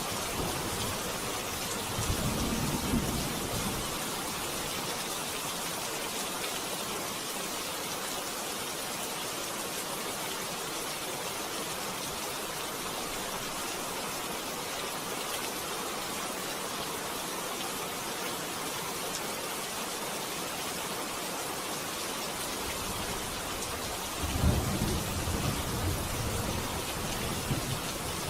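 Steady rain with low rumbles of thunder, one about two seconds in and a longer one near the end.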